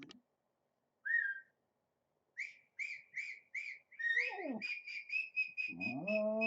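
Played-back 'sounds for dogs' audio: short high-pitched whistle-like chirps, about three a second, speeding up about halfway through. Near the end a long, steady, lower-pitched call joins them.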